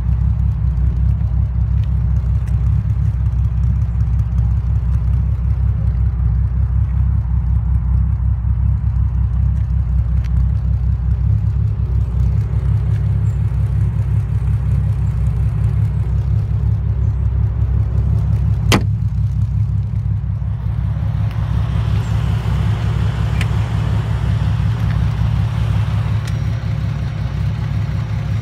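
TVR Tuscan 2S's straight-six Speed Six engine idling with a steady low burble. A single sharp knock comes about two-thirds of the way through.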